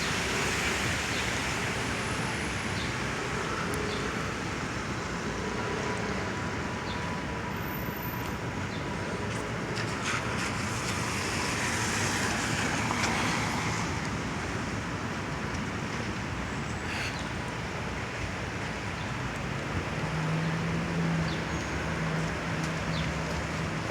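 Rainy city street: a steady hiss of rain and traffic on wet pavement, with a vehicle swelling past about halfway through and a low engine hum near the end.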